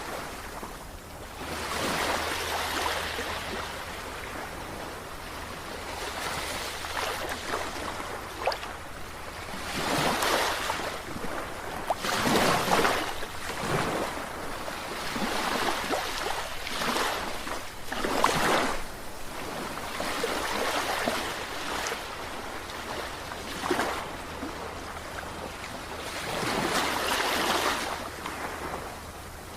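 Sea waves breaking and washing in, a surge of surf noise every few seconds that swells and fades, over a steady low hum.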